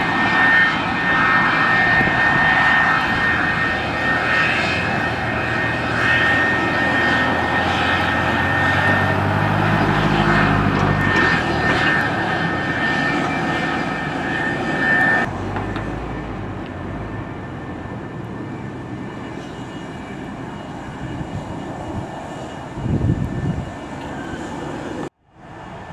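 Airliner engines running loud, with a steady high whine over a broad rush of noise. About fifteen seconds in, the sound drops abruptly and then continues more quietly, before cutting out briefly near the end.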